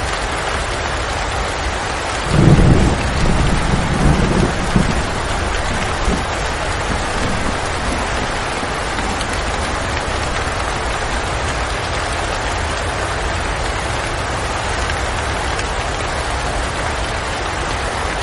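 Steady rain falling outside a window. A low rumble comes in pulses about two seconds in and fades after a few seconds.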